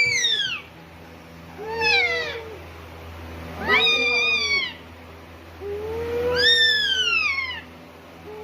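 Parrot giving drawn-out, meow-like calls that rise and fall in pitch: the tail of one call at the start, then three more about two seconds apart, the last one the longest.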